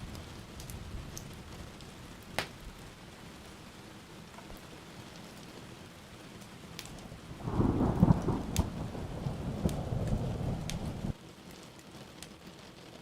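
Steady rain with scattered sharp ticks. About seven and a half seconds in, a loud thunder rumble rolls in for about three and a half seconds, then cuts off suddenly.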